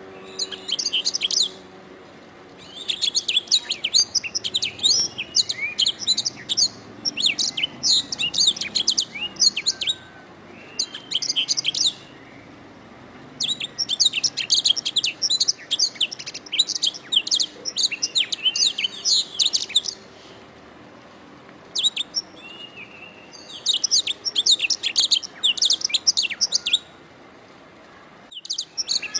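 Domestic canary singing: phrases of fast, high trills and chirps lasting several seconds each, broken by short pauses.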